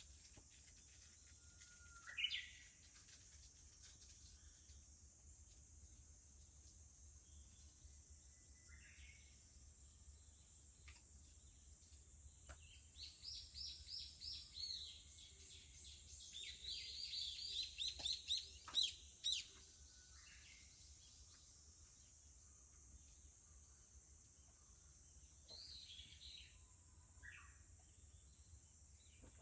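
Japanese bush warblers calling: a few whistled calls that sweep upward, and near the middle two runs of rapid repeated notes. Beneath them runs a steady high drone of cicadas.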